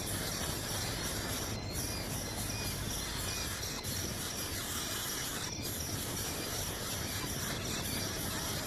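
Steady outdoor insect chorus, cricket-like, over a dense hiss, with faint short bird chirps now and then.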